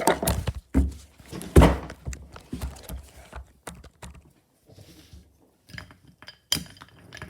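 Tableware being handled: a few dull thumps in the first two seconds, then light clinks of a spoon against a bowl near the end.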